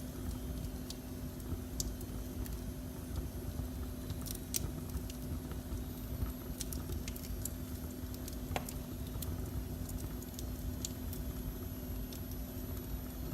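Wood fire burning in a fireplace: irregular sharp crackles and pops, a few louder than the rest, over a steady low rumble with a constant low hum.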